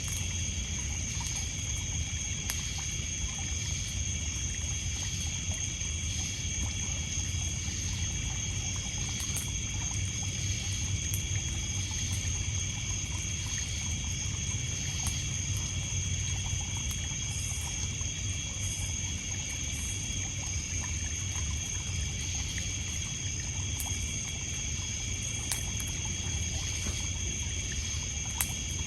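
Steady chorus of crickets and other night insects, holding several high-pitched tones, over water trickling and lapping on a pebble beach, with a few sharp crackles from a wood campfire.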